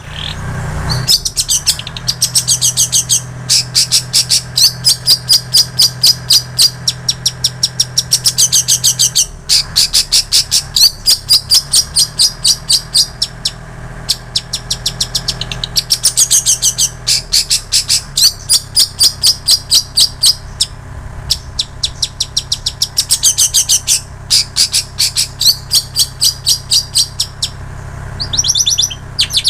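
Long-tailed shrike singing fast runs of sharp, rapidly repeated chirps and trills that mimic plain prinia and canary song, in phrases of a few seconds broken by brief pauses. A faint steady low hum lies underneath.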